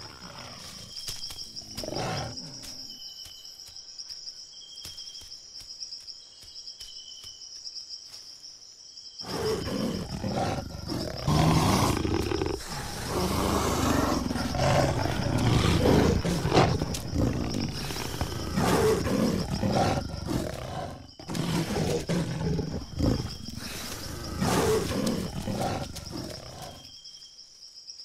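Jaguars growling and snarling, the female's aggressive rebuff of a courting male. A short growl comes about two seconds in, then a long stretch of loud, rough growls and snarls starts about a third of the way through and runs almost to the end with one brief pause. A steady high insect drone sits behind it.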